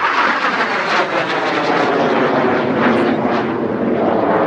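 BAe Hawk Mk 51 jet trainer's Rolls-Royce Turbomeca Adour turbofan in flight: a loud, steady jet roar.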